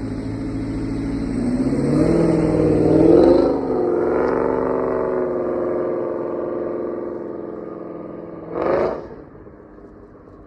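Cammed 5.3-litre V8 of a GMC Sierra with long-tube headers. The exhaust rises in pitch under throttle about two seconds in, then holds and slowly falls away. A short, sharp rev blip comes near the end, after which it drops much quieter.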